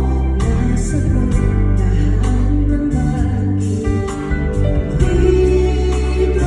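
Live concert music: a singer's voice over a band with heavy bass, recorded on a phone in the audience.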